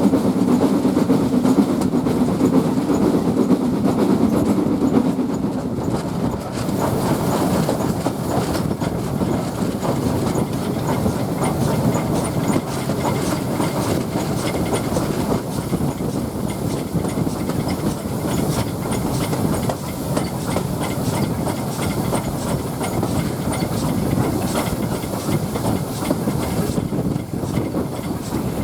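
Train carriage running along the line: a steady rumble with the wheels clicking over the rail joints. A low hum fades about five seconds in.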